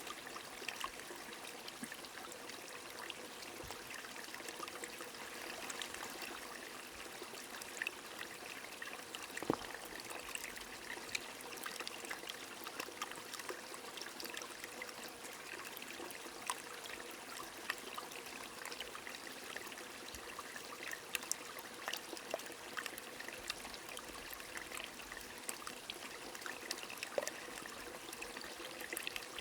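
A small stream trickling steadily, with light rain falling and many soft drop ticks scattered through it.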